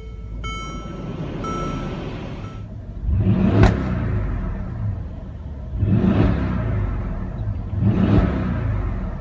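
Mercedes-AMG GLS 63's 5.5-litre twin-turbo V8 idling, then revved three times, about three, six and eight seconds in. A chime repeats about once a second and fades out in the first few seconds.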